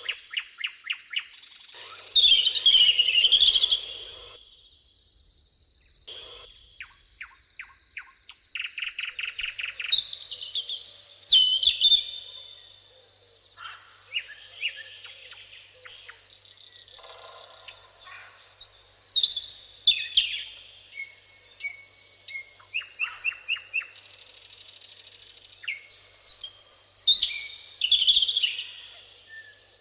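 Several songbirds singing and calling together: a mix of chirps, short whistles and quick rattling trills, with a loud phrase every few seconds over a steady high thin tone.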